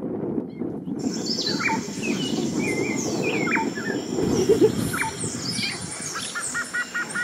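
Wild birds calling: sharp falling whistles and chirps repeated every second or so, beginning about a second in, over a steady low rushing background.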